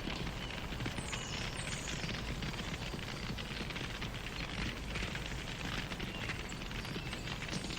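Wood fire crackling steadily, with many small pops and snaps over a low rumble of flames.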